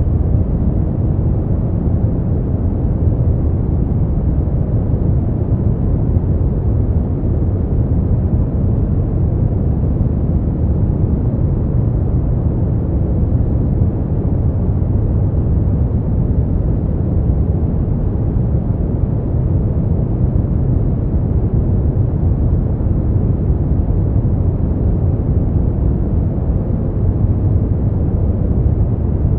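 Steady, unchanging noise track for sleep, deep and muffled, with its strength in the bass and almost no high hiss.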